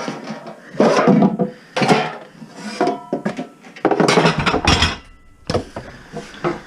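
Irregular clattering and knocking of household objects being picked up and moved about while rummaging through clutter.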